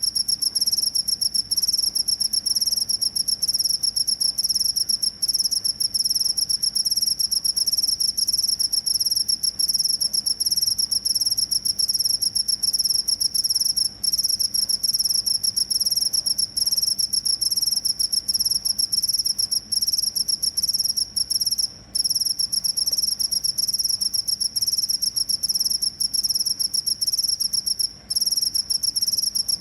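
Cricket chirping in a high-pitched, fast, continuous trill, broken only by a few short pauses.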